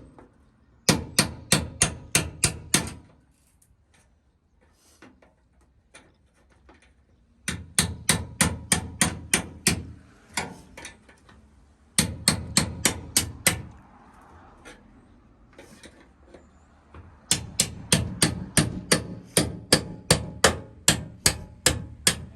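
Hammer blows driving a chisel through the sheet metal of a car hood. The strikes come rapidly, about five a second, in several runs of a few seconds each, with short pauses between.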